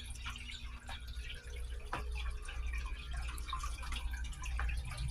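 Small birds pecking seed in a window bird feeder: scattered light taps and clicks over a low steady hum.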